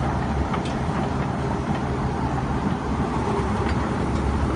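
Heavy engine of a truck-mounted rotary table water well drilling rig running steadily under load, with a deep hum and a few faint clinks.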